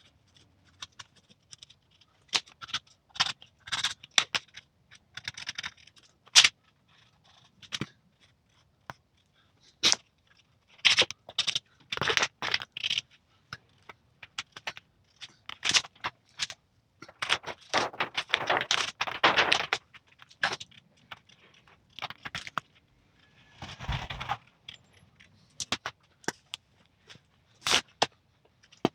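Clear plastic patterning sheet being handled and pulled into shape: irregular crackling and scraping with sharp taps and clicks, busiest in two stretches in the middle.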